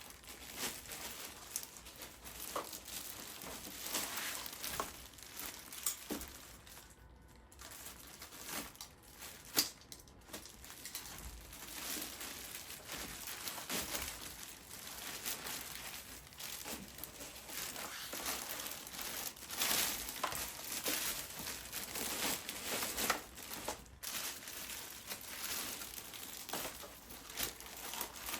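Plastic and paper packaging being handled and unwrapped: continuous crinkling and rustling with many small sharp crackles and knocks.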